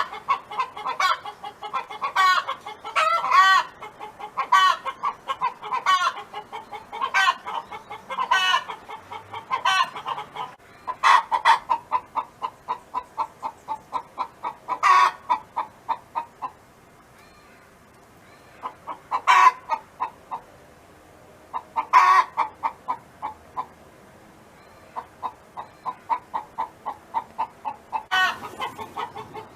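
Domestic hen clucking in rapid runs of short notes, with louder squawking calls breaking in every few seconds. The clucking eases off for several seconds about halfway through, then picks up again.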